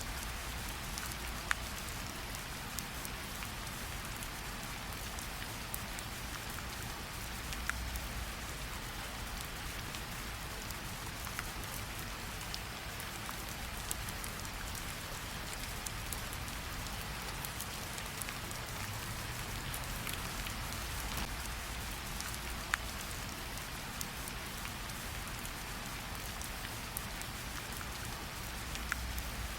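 Steady rainfall pattering on leaves and ground, a continuous hiss with scattered sharper drips from individual drops.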